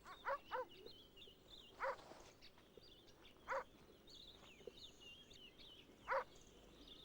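Verreaux's sifaka giving short, barking calls, five in all, the first two a quick pair.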